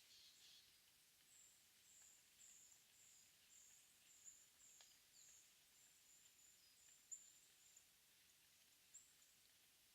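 Faint early-morning forest ambience with a small bird giving a series of very high, thin notes, about two a second for several seconds, then a few scattered notes, along with a few faint ticks.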